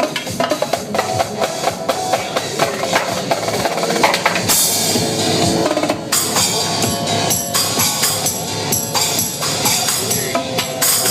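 Live drumming on a drum kit, rapid stick strokes played over electronic dance music, with a cymbal wash about four and a half seconds in and again near the end.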